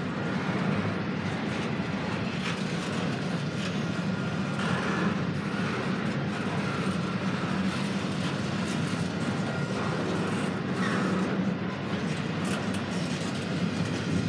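Cars of an intermodal double-stack freight train rolling past: a steady rumble of wheels on rail, with a few brief higher squeaks.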